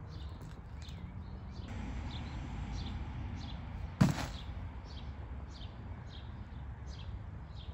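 A small bird chirping over and over, about two short high chirps a second, over a low steady rumble of outdoor background noise. A single sharp click about four seconds in.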